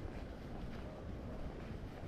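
Wind rumbling on the microphone during a walk, with faint footsteps about every two-thirds of a second.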